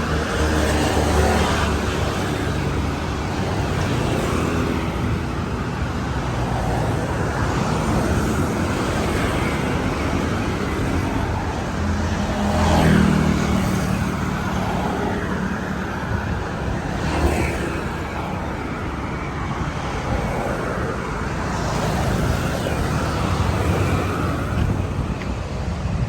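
Road traffic: a steady wash of engines and tyres, with several vehicles passing close, the loudest about halfway through.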